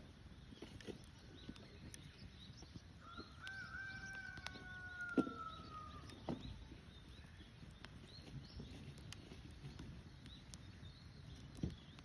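Small birds chirping high and faint, with scattered sharp clicks and pops. Near the middle comes one long, slightly falling tone of about three seconds.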